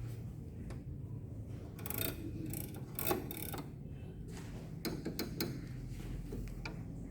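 Irregular small plastic clicks and rattles from an Epson LQ2190 dot-matrix printer ribbon cartridge being handled during repair, with a few clustered clicks about two, three and five seconds in, over a low steady hum.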